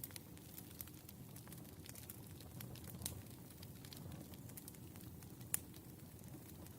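Burning firewood crackling: scattered sharp pops and snaps over a low steady rumble of the fire, the loudest pops about three and five and a half seconds in.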